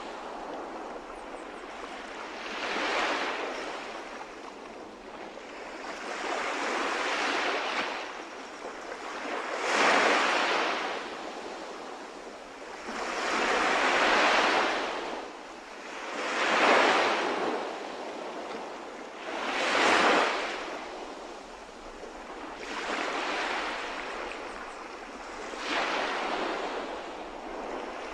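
Calm sea waves washing onto the shore, the surf swelling and falling away about every three seconds.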